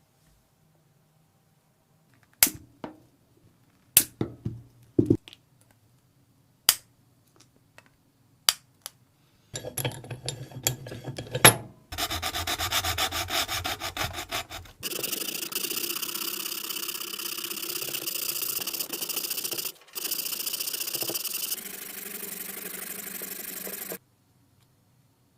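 A few sharp knocks and taps, then abrasive sanding of a resin workpiece: a steady, finely pulsing rasp that runs for about twelve seconds and cuts off suddenly near the end.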